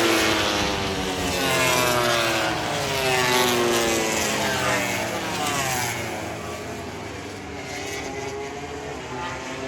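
MotoGP racing motorcycles' engines at high revs passing one after another, each engine note falling in pitch as the bike goes by; the sound is loudest near the start and grows a little fainter toward the end.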